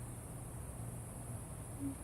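Steady high-pitched insect chorus of crickets, with a low steady hum underneath.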